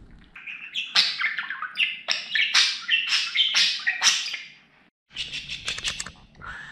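Budgerigar warbling: a rapid run of chirps and squawky notes that breaks off about four and a half seconds in, followed by a few short clicks and chirps.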